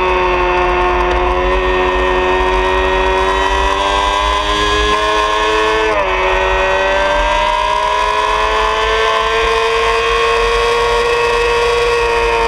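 Honda CBR600RR's inline-four engine running hard at high revs on track, its pitch sagging and climbing slowly. About halfway through there is a quick gear change, the pitch stepping down. Steady wind rush runs underneath.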